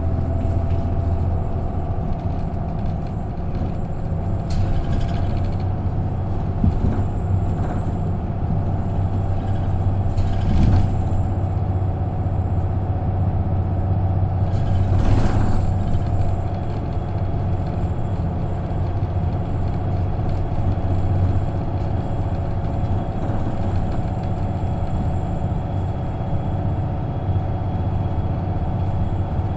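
Isuzu KK-LR233J1 non-step bus running along the road, heard from on board: a steady low engine hum. Three brief noisy rushes come about 5, 10 and 15 seconds in.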